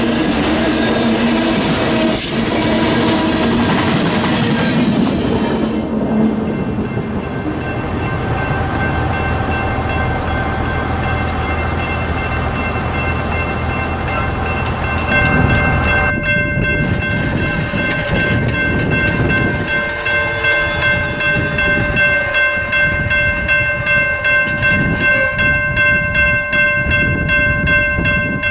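Freight cars of a long manifest train rolling past on steel wheels, the rail noise fading to a low rumble as the train moves away. About halfway in, an approaching diesel locomotive's air horn sounds a long, steady multi-note chord that holds to the end.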